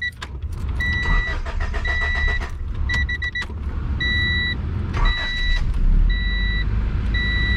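1992 Honda Civic hatchback engine cranked and started with a key, then running with a steady low rumble. A dashboard warning chime beeps about once a second throughout.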